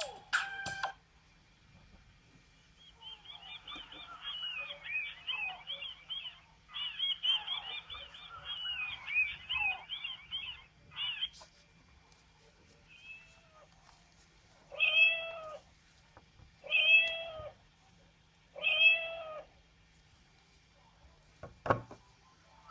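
Sagem my411X phone speaker playing an animal-sound ringtone: several seconds of rapid high warbling chirps, then, after a pause, three cat meows about two seconds apart. A single click comes near the end.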